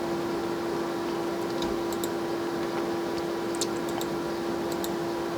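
A few scattered light clicks of typing on a computer keyboard, over a steady electrical hum.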